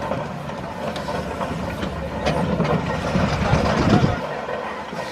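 Steam traction engine on the move, a low rumble that builds to its loudest about four seconds in and then drops away.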